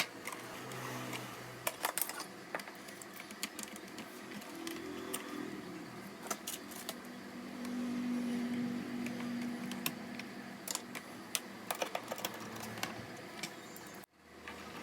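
Irregular light clicks and taps of small plastic and metal parts being handled as a laptop is taken apart by hand.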